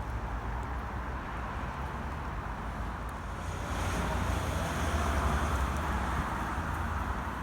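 Road traffic noise with a car passing by, swelling about halfway through and easing toward the end, over a low wind rumble.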